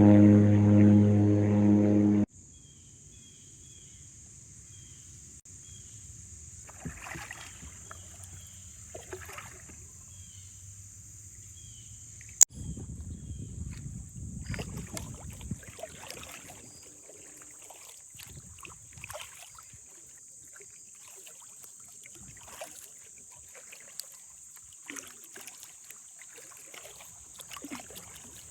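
A propeller airplane's engine drones loudly and cuts off abruptly about two seconds in. After that, kayak paddle strokes splash and drip at irregular intervals, over a steady high-pitched buzz.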